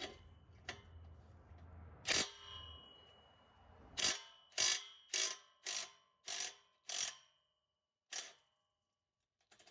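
Ratchet wrench clicking as it works the exhaust flange bolts with a socket. There are a few scattered clicks, a louder one about two seconds in, and then a regular run of six strokes about 0.6 s apart, each a short metallic click with a slight ring.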